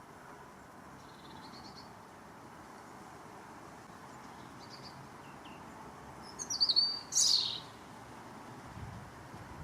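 Small birds chirping: a few faint high chirps, then a loud, sharp call pair about two thirds of the way through, over a steady outdoor background hiss.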